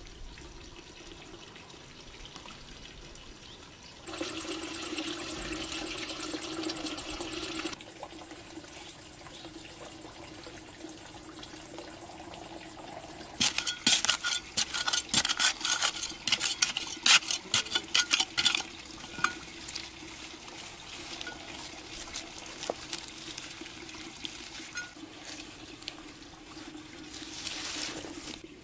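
Water running from a tap into a sink, with a steady low hum underneath. In the middle comes a run of rapid clattering knocks lasting about five seconds.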